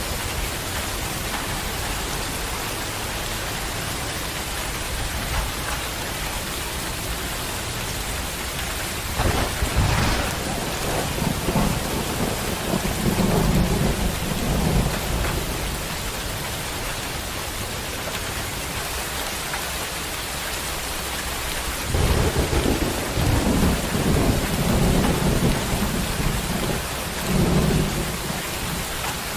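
Heavy rain falling steadily, with two long rolls of thunder rumbling through it, one about a third of the way in and another later on.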